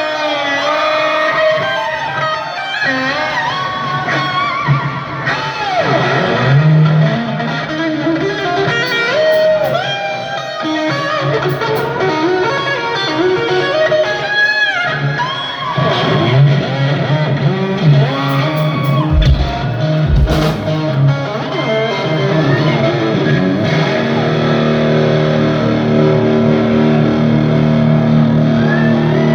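Live rock band playing: distorted electric guitar with bent and sliding lead notes over a steady bass line.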